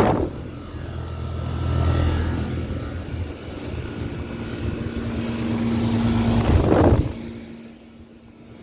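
Running air-conditioning unit: a steady low hum with a fan whoosh that swells louder about seven seconds in, then falls away suddenly.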